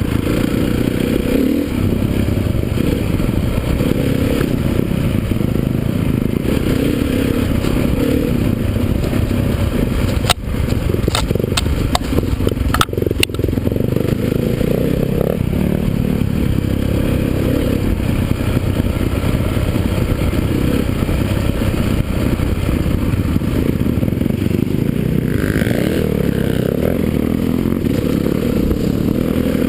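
Motocross dirt bikes running, a loud continuous rumble. A few sharp clicks or knocks come about ten to thirteen seconds in.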